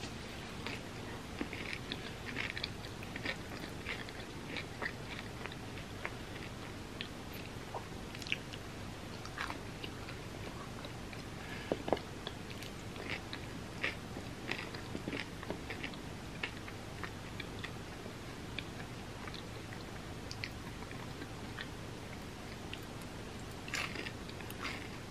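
Close-miked chewing and crunching of a homemade chocolate-coated bar with puffed rice and peanuts: a run of soft, crisp crunches, thicker in the first few seconds and again near the end, with one sharper click about halfway through.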